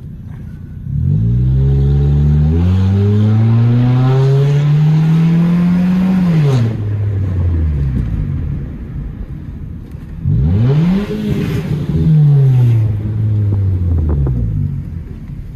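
Turbocharged Nissan Sentra SE-R engine heard from inside the car, pulling hard from about a second in. Its pitch steps down at a gear change and climbs again until about six seconds in, then falls away as the throttle is lifted. A second sharp pull comes about ten seconds in, and its pitch then winds down.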